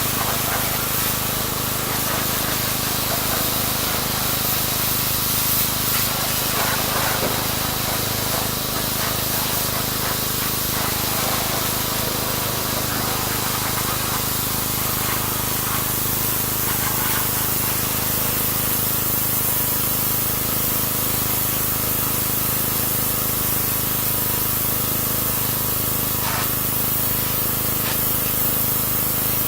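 Pressure washer spraying a jet of water in a steady hiss, with the machine's motor running at a constant hum underneath.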